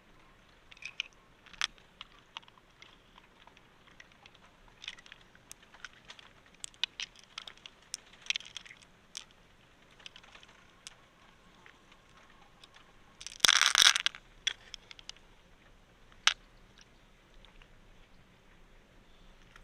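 Close handling noises: scattered small clicks and crunches, with one louder crunching, scraping noise lasting under a second about 13 seconds in and a single sharp click a few seconds later.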